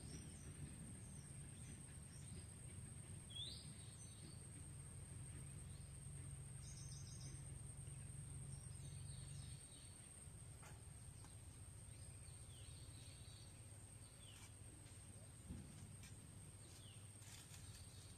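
Quiet ambience: a low steady rumble with a thin high steady tone over it, and a few faint, short bird chirps scattered through, some of them quick rising calls.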